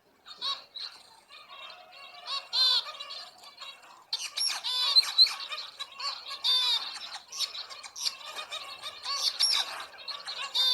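Birds calling: a busy chatter of chirps and squawks, sparse at first and much denser from about four seconds in, cutting off suddenly at the end.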